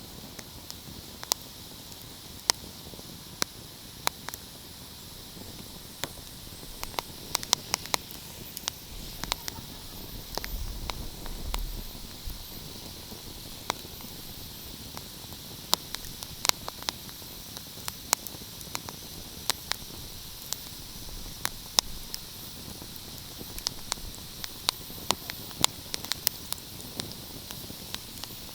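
Fireplace fire crackling: irregular sharp pops and snaps over a steady hiss, with a brief low rumble about ten seconds in.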